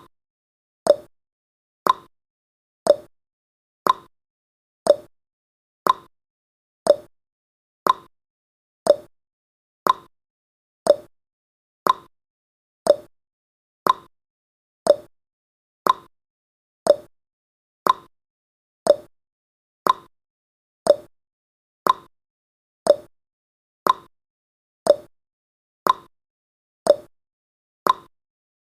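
Countdown timer's tick sound effect: one short, sharp tick every second, perfectly even.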